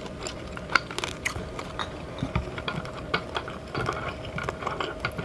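Close-up eating sounds: a string of small irregular clicks and crunches from chewing and handling food, over a faint steady hum.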